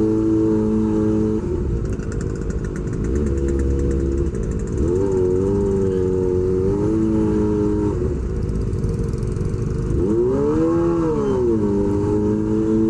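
Kawasaki Ninja ZX-25R's 250 cc inline-four running at low revs through an SC-Project aftermarket exhaust, crawling in a traffic jam. The revs waver a little midway and rise and fall once about ten seconds in.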